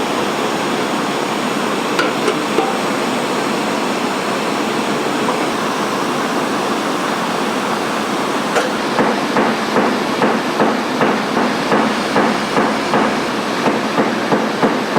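Light metal taps on a motorcycle fuel tank during paintless dent repair: a few scattered taps early, then steady tapping at about two a second from about halfway in, over a steady hiss.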